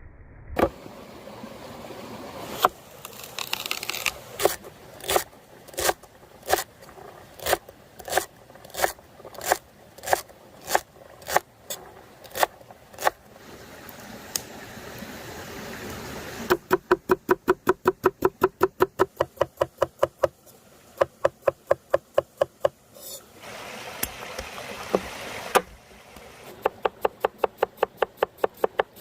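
A knife chopping on a cutting board: steady strokes about two a second at first, then quicker runs of about five strokes a second from a little past halfway, pausing briefly before picking up again near the end.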